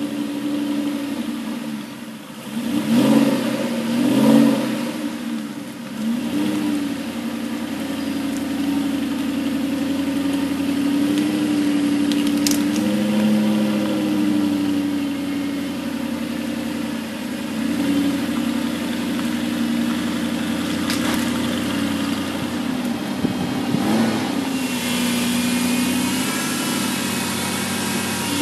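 Aston Martin V8 Vantage's V8 engine running steadily on a cold engine after starting, warming up. Its revs rise and fall briefly several times, a few blips in the first few seconds and more in the second half.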